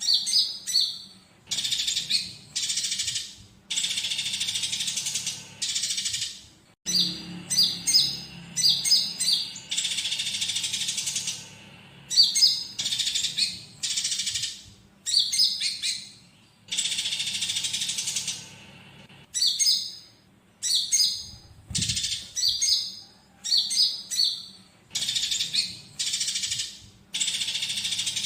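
Konin (scarlet-headed flowerpecker) song used as a tutor recording: quick runs of high, sharp chips and trills alternate every second or so with dense rasping chatter, the song laced with fighting house-sparrow-style calls.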